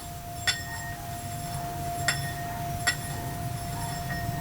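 Three light clinking strikes on a small chime, each leaving a short high ring, over a steady held ringing tone.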